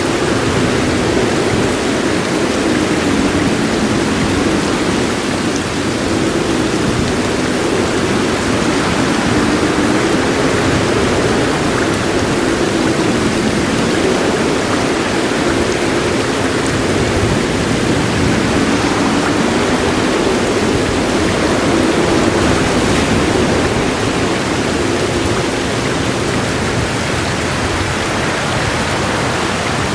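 Heavy rain falling in a dense, steady hiss, unchanging throughout.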